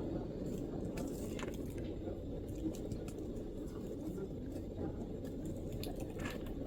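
A few scattered MacBook keyboard keystrokes, light clicks at irregular gaps of a second or more, over a steady low background rumble.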